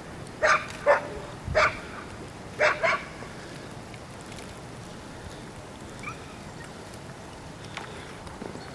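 A dog barking, five short barks in the first three seconds, then a steady hiss.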